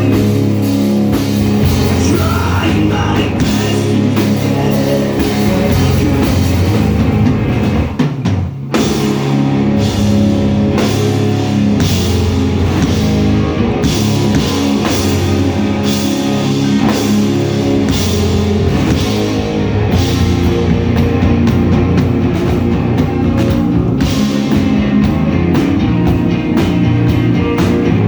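Loud live rock band playing: distorted electric guitars, bass and a drum kit, with some singing. The full band drops out briefly about eight seconds in, then comes back in.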